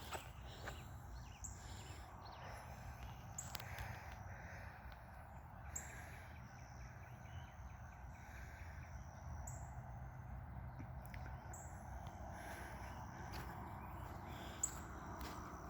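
Wild birds singing: short high chirps repeated every second or two over a steady low outdoor background noise.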